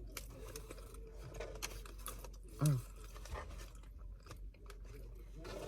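Close-up chewing of crispy fries, with crunches and mouth clicks throughout; a short hum about two and a half seconds in.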